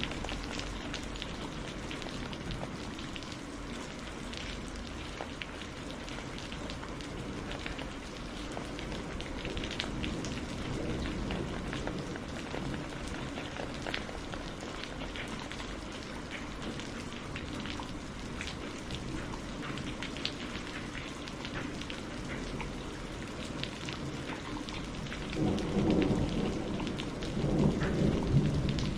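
Steady rainfall with scattered drops ticking on a surface, and a rolling thunder rumble that swells louder near the end.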